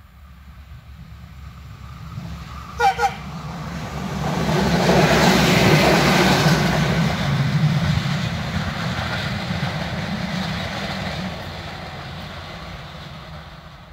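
A train approaching and passing: its rumble grows louder to a peak about five to seven seconds in, then slowly fades. Two short horn blasts sound about three seconds in.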